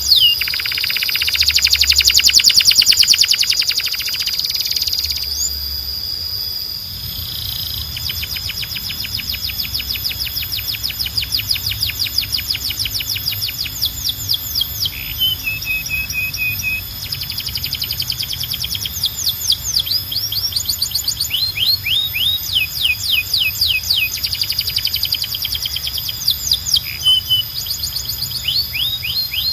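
Domestic canary singing: fast rolling trills of repeated falling notes, changing speed from passage to passage, over a steady held high whistle, with a few short pauses and single chirps.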